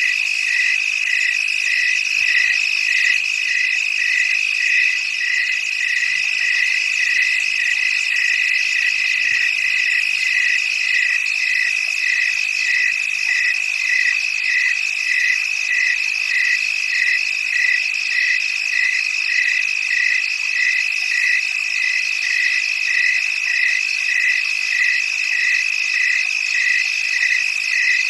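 Chorus of calling frogs and insects: a steady high-pitched trill with a single note repeating evenly about one and a half times a second.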